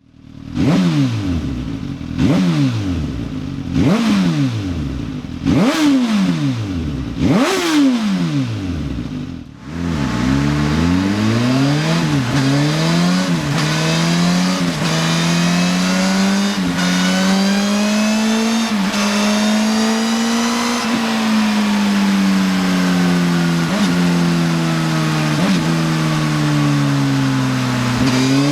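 Suzuki Katana's 999 cc inline-four through an SC-Project slip-on exhaust. First it idles and is blipped sharply five times, each rev rising and falling back fast. Then it pulls up through several gears, the pitch climbing and dropping at each shift, before easing off with a long falling note and downshift blips.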